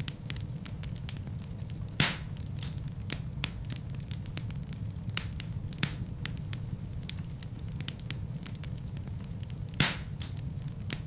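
Fireplace fire crackling: a steady low rumble with scattered sharp snaps, and two louder pops, about two seconds in and near the end.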